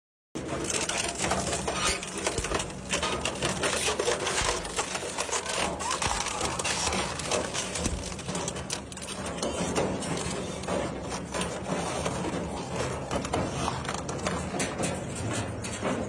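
Industrial shredder grinding metal: dense crunching, cracking and clatter from the cutters over a steady motor hum. It cuts in suddenly about half a second in.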